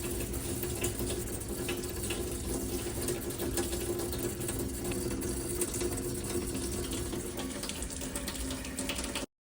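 Water running steadily from a sink faucet, with a low steady hum under the rush; it cuts off suddenly near the end.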